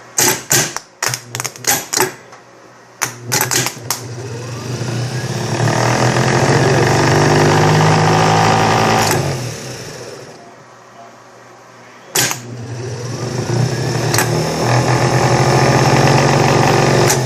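Rebuilt Delco 42MT heavy-duty starter motor being bench-run: a rapid string of sharp solenoid clicks, then the motor spins up and runs steadily for about five seconds, stops, and after another click runs again for about five seconds. It spins freely, the sign that the rebuilt armature works.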